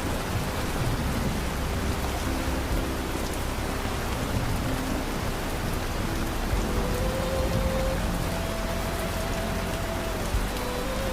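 Steady, even rain, with soft held notes of gentle music drifting over it.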